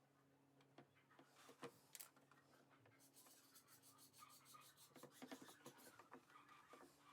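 Faint rubbing and scraping, with a few light knocks, becoming a quick run of scraping strokes from about three seconds in, over a low steady hum.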